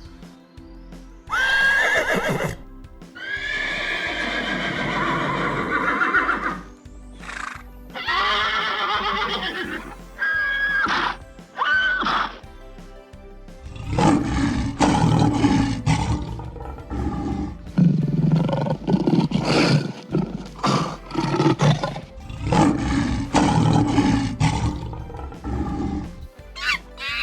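An animal calling several times: long, loud pitched calls that fall in pitch, then a quick run of short repeated sounds, over background music.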